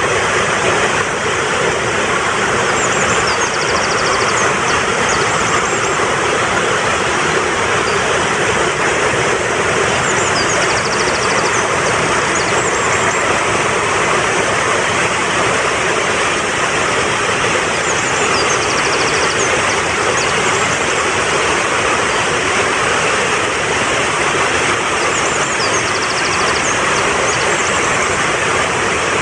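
Mountain stream rushing steadily. Over it a short, high bird call with a fast trill comes four times, evenly spaced about eight seconds apart.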